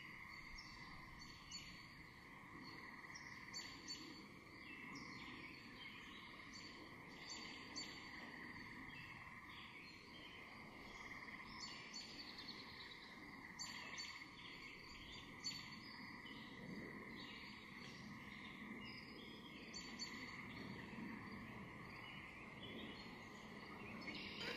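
Faint outdoor ambience: small birds chirping now and then over a steady high-pitched drone.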